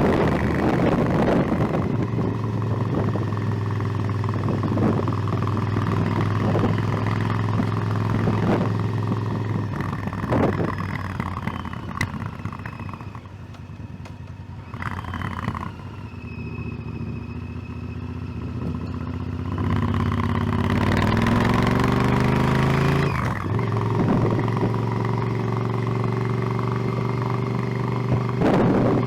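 Motorcycle engine under way: a steady run, then the throttle eases off and the engine goes quieter for several seconds in the middle. About two-thirds through it revs up with a rising note, breaks off briefly and settles back into a steady run.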